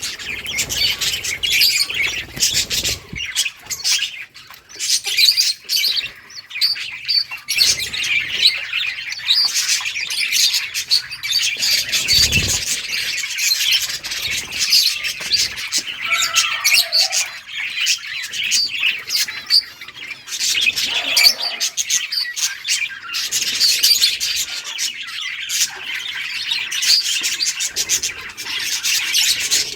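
A flock of budgerigars chirping and chattering continuously, many overlapping high chirps at once.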